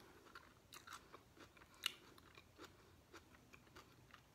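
Faint close-up chewing of a mouthful of soft-bread cold cut sub sandwich: scattered small mouth clicks and smacks, one sharper click about two seconds in.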